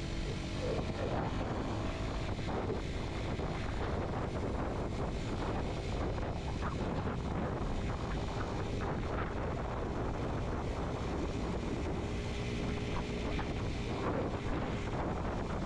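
Kawasaki Z125 motorcycle's small single-cylinder engine running under way, with steady wind noise on the microphone.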